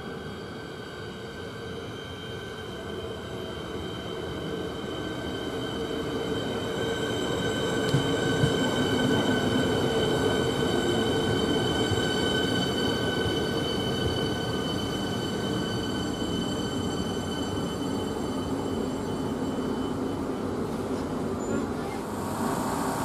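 Siemens Nexas electric multiple-unit train pulling into a station platform: its running rumble grows louder over the first several seconds and then holds steady. Several steady high-pitched squealing tones ride over the rumble as it runs in.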